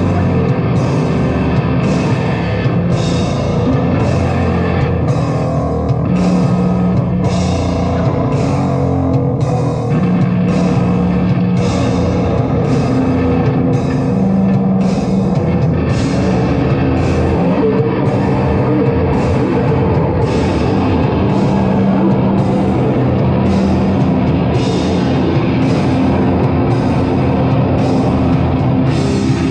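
Heavy band playing live: loud distorted guitars and a drum kit, with cymbal hits about once a second over a dense low-end chug.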